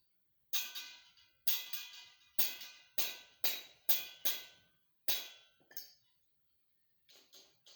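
About ten sharp metallic strikes at uneven spacing, each ringing briefly as it dies away, followed by a few fainter ones near the end.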